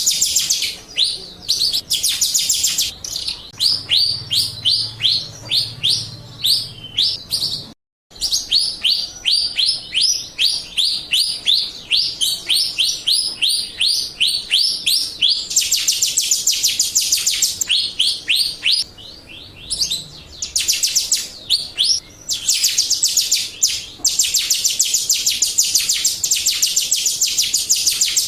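Jalak Rio starling song: long runs of quick, high, falling chirps, about three or four a second, which in places speed up into dense fast trills. The song stops dead for a moment about eight seconds in.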